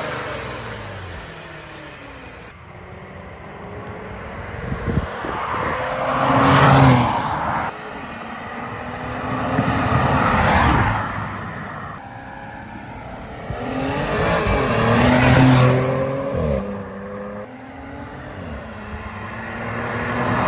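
Audi S5 on its stock airbox accelerating hard in a run of short cut clips, its engine note climbing in pitch with each pull. It swells loudest three times as the car goes past.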